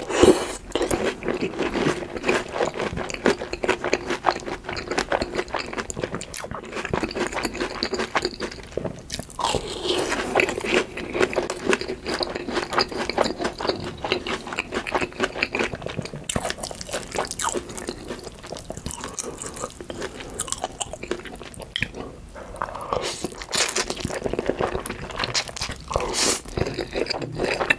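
Crunchy bites and chewing of breaded, deep-fried mini pork cutlets (donkatsu): a dense, continuous run of crisp crackles, with a loud bite right at the start.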